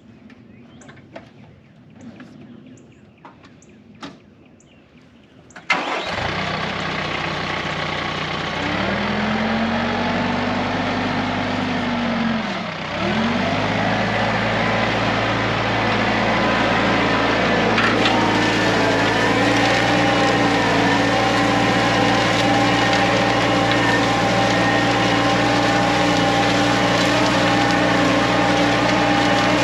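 TYM 4815 tractor's diesel engine starting about six seconds in, after a few faint clicks, then running; its speed climbs, dips briefly and comes back up, then holds steady.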